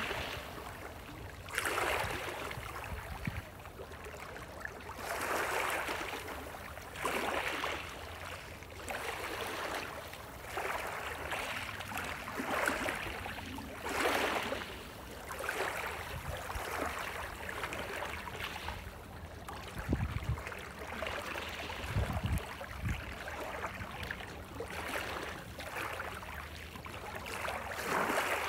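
Small waves lapping and splashing in a run of short swells, one every second or two. A few low thumps come a little past the middle.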